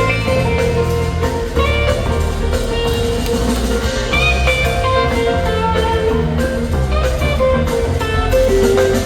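Rock band playing an instrumental jam live: a guitar plays lead lines over bass and drums.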